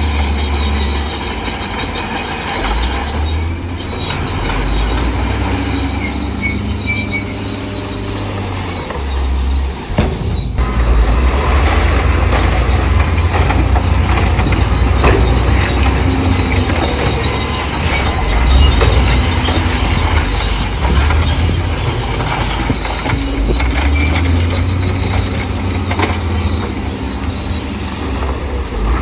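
Bulldozer's diesel engine working under load, with its steel crawler tracks squealing and clanking. It gets louder about ten seconds in.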